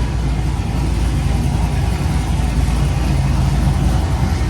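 Cammed LS V8 engine of a built Chevrolet Trailblazer SS running steadily at idle.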